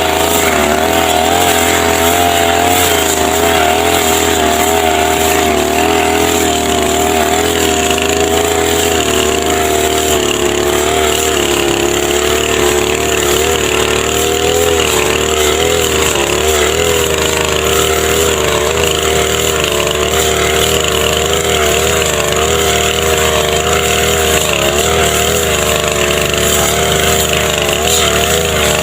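Small engine of a brush cutter running steadily at high speed while cutting grass, its pitch wavering slightly up and down.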